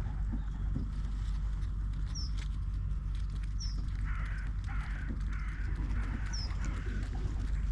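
Birds calling: a few short, high, falling chirps, and about four seconds in a run of five or six harsher calls.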